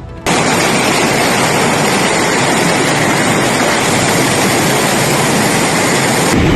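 Fast-flowing floodwater rushing steadily. It cuts in sharply just after the start.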